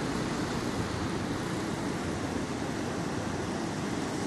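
Swollen river in flash flood rushing past: a steady, unbroken roar of water with no pauses or separate strokes.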